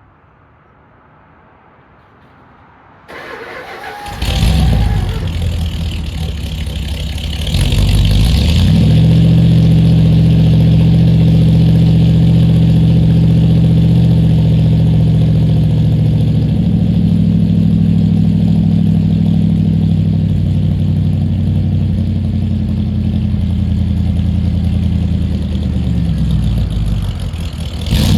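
Mopar car engine on a cold start: about three seconds in the starter cranks briefly and the engine catches with a loud burst. About four seconds later it is revved, then it settles into a steady fast cold idle, its note shifting slightly about halfway through.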